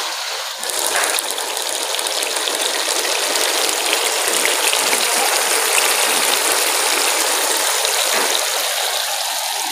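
Taro root (arvi) frying with chicken in oil and spice masala in a cooking pot: a steady sizzle with small scattered clicks, the masala-frying stage before water is added.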